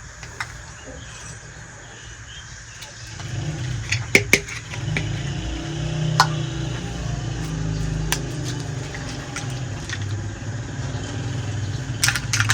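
A motor engine running with a low drone that swells up about three seconds in, with a few sharp clicks over it.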